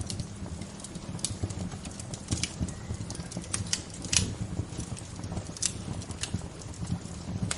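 Wood bonfire crackling, with irregular sharp pops and snaps over a low steady rumble; the loudest pop comes about four seconds in.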